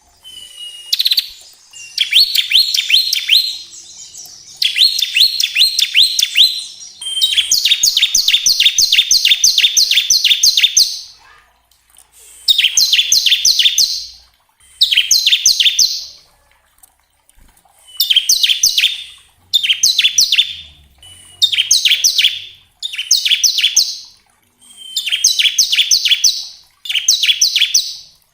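Bar-winged prinia (ciblek) singing its rapid machine-gun 'ngebren' trill: about a dozen bouts of fast, evenly repeated high notes, the longest about four seconds, with short pauses between.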